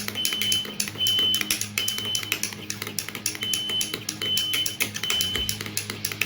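Smoke alarm beeping: short high-pitched beeps of about half a second each, in two groups of three with a pause between them, set off by smoke from the hot griddle. A spoon clinks and scrapes in a bowl as sauce is stirred.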